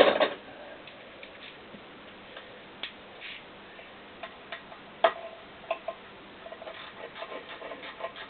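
Light metallic clicks and clinks of hand tools and engine parts being handled while connecting-rod nuts are fitted, one louder knock at the start, a few scattered sharp ticks, then a quicker run of light ticks near the end.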